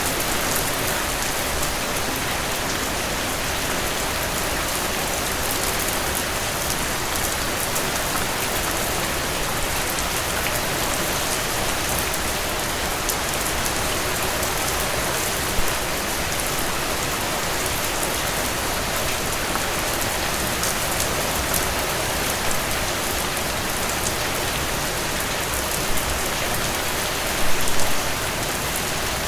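Heavy rain pouring steadily, a dense even hiss of drops with fine patter on a surface, with a few brief louder spatters near the end.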